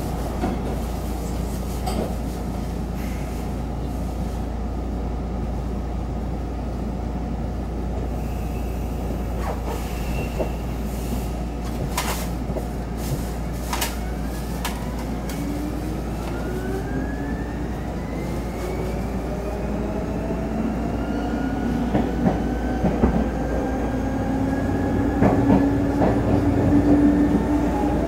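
Seibu 10000 series limited express electric train running, heard from inside the car: a steady rumble of wheels on rail with occasional clicks. From about halfway a whine of the motors and gears rises steadily in pitch and the sound grows louder as the train picks up speed.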